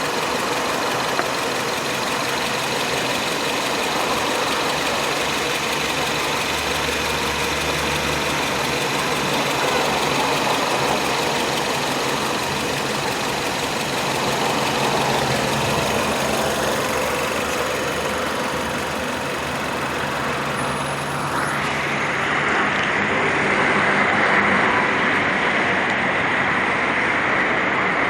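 Chery Tiggo's 1.6-litre inline-four engine running steadily with a low, even hum. About three quarters of the way through, the sound turns duller and noisier.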